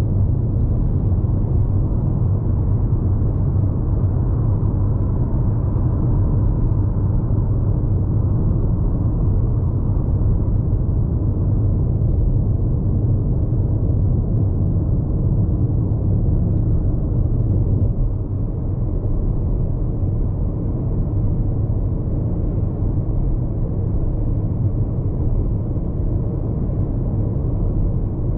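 Road noise inside the cabin of a Hyundai IONIQ 5 AWD electric car cruising on an expressway: a steady low rumble of tyres on the road, with no engine sound. It drops slightly about two-thirds of the way through.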